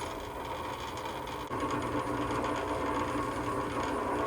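Electric grinder running unloaded with a steady motor hum. About a second and a half in it gets a little louder, with a low steady tone added.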